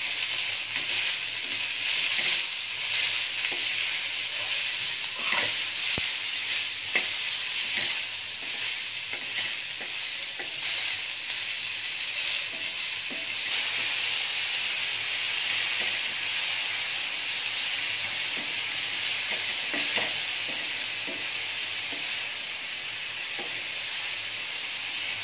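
Sliced onion, tomato and garlic sizzling in oil in a pan while a wooden spatula stirs and scrapes them, with a few light taps along the way.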